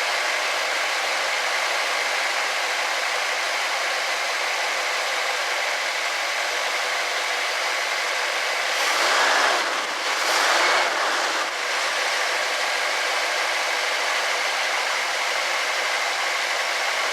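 1964 Ford Thunderbird's 390 V8 idling steadily, its idle mixture set for peak vacuum and holding at about 18 and a half inches. There are two louder swells of noise about nine and ten and a half seconds in.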